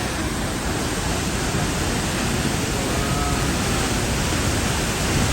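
Large waterfall pouring, a loud, even rushing noise that holds steady throughout.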